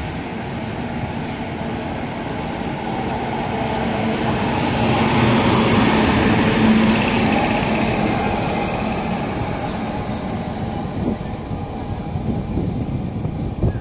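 WAP7 electric locomotive and its express coaches running past on the rails, a dense rumble with a faint steady hum that swells to its loudest about six to seven seconds in and then eases off. Sharp irregular knocks come near the end.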